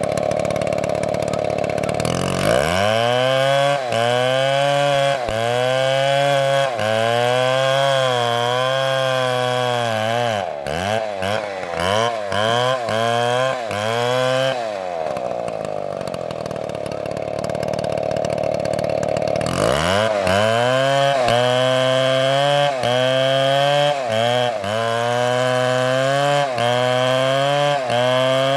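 STIHL chainsaw cutting wood, its engine note dipping and recovering about once a second as the bar is worked through the cut. In the middle it runs free at high revs for a few seconds, then goes back into the cut.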